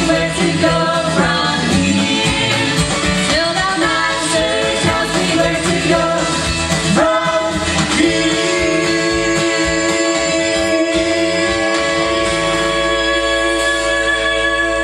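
Gospel vocal group singing in harmony with musical backing, the voices moving through a phrase and then holding a long sustained chord from about eight seconds in.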